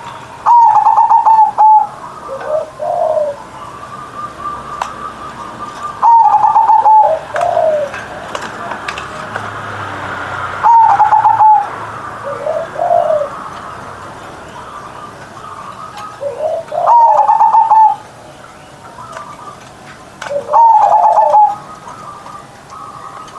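Zebra dove (perkutut) singing its cooing song at full volume: five phrases, one every four to five seconds, each a higher drawn-out coo that drops to lower rolling notes. Faint chirps of other birds sound in between.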